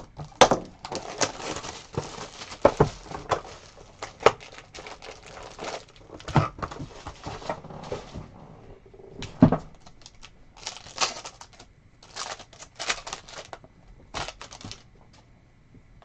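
Plastic wrapping crinkling and tearing, mixed with irregular clicks and knocks, as a sealed trading-card hobby box and its foil packs are torn open and handled.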